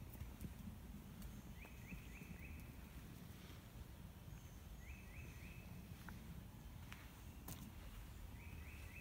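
A songbird singing a short phrase of three or four quick notes, repeated three times about every three seconds, over a faint low steady rumble.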